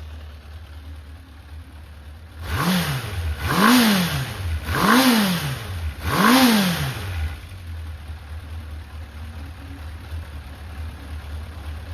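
Honda CB750F's air-cooled inline-four engine idling, blipped four times in quick succession, each rev rising and falling back before it settles to idle again. The engine is sold as running strong, with no abnormal noise.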